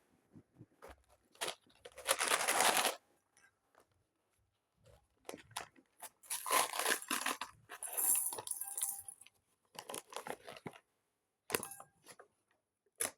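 Plastic Lego parts bags crinkling and rustling as they are handled, in two longer bursts, with scattered short clicks in between.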